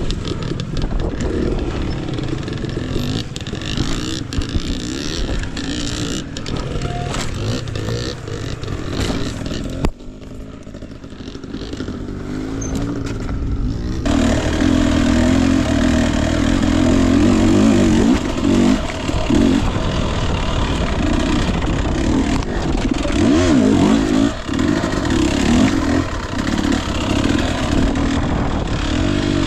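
Husqvarna TE 250i single-cylinder two-stroke dirt bike engine running on and off the throttle, with scattered knocks. It drops quieter for a few seconds about a third of the way through, then comes back louder with the throttle held on.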